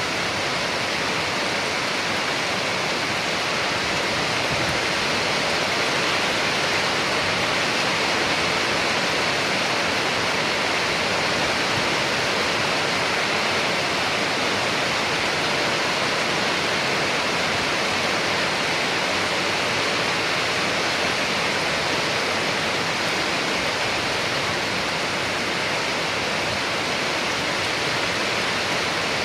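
Steady rain falling, an even, unbroken hiss with no thunder or separate drops standing out.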